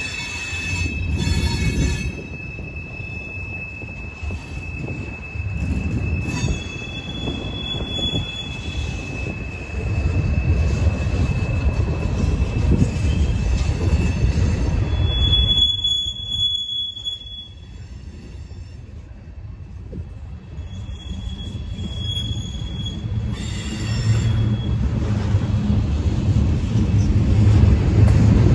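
Freight train cars rolling past a grade crossing: a steady low rumble of wheels on rail, with high-pitched wheel squeals that come and go, the longest about halfway through.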